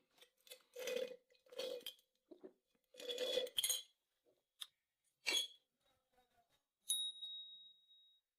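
Tableware clattering: a few irregular knocks and rattles, then one sharp clink about seven seconds in that rings on as a single high tone for about a second.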